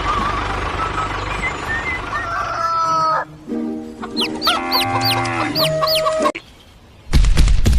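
Rooster crowing: one long call in the middle. Near the end a fast run of sharp clicks starts.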